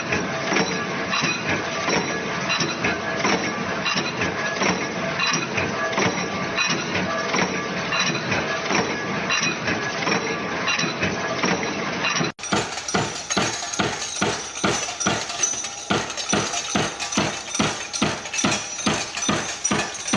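Factory machinery running: first a dense, continuous clatter of many small metal impacts, then, after a sudden change about two-thirds of the way through, a machine striking in a steady rhythm of about two to three blows a second.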